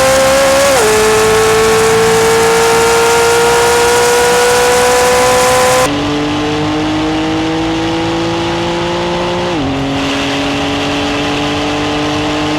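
High-performance car engine at full throttle in a drag race, its pitch climbing steadily and dropping sharply at each of three upshifts. The sound turns a little quieter and less hissy about halfway through.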